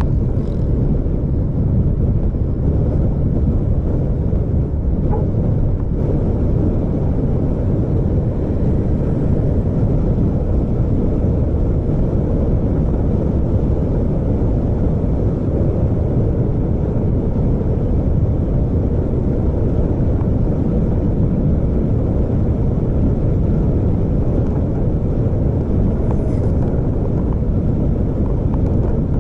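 Steady low rumble of a vehicle on the road, with engine, tyre and wind noise and no change in pace.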